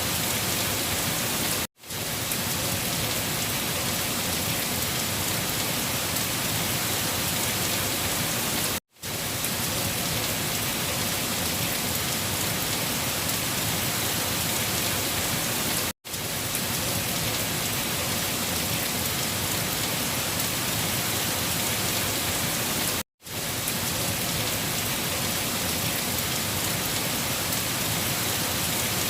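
Steady heavy rain, an even hiss of falling water. It cuts to silence for an instant four times, about seven seconds apart, and fades back in each time.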